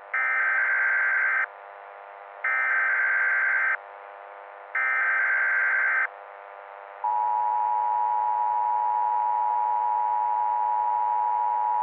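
Emergency Alert System SAME header: three bursts of warbling data tones, each a little over a second long and about a second apart. About seven seconds in, the steady two-tone EAS attention signal starts and is held. A faint steady drone runs underneath.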